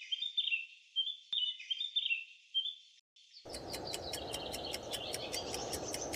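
Birds singing, a run of quick high chirps and warbles for about three seconds. After a short break a steady rushing noise comes in, with fast regular high ticks at about five a second.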